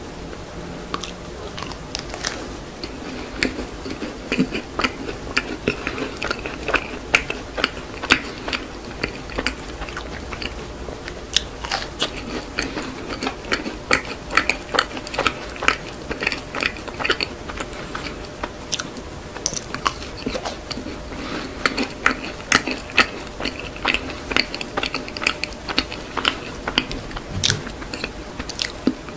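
Close-miked mouth sounds of a person biting into and chewing macarons: the crisp shells crackle in many small sharp crunches, mixed with soft chewing of the filling.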